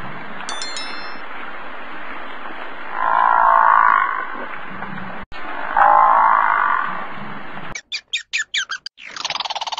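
An animal calling in calls about a second long, repeated every few seconds over steady background noise. Near the end a different, rapid pulsing call takes over.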